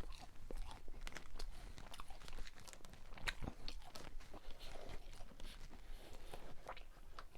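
Close-miked chewing of Cajun-seasoned Checkers fries: irregular wet mouth clicks, smacks and soft crunches.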